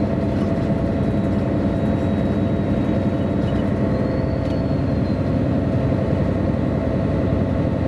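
MAN A23 NG313 articulated city bus engine running steadily, heard from inside the passenger cabin.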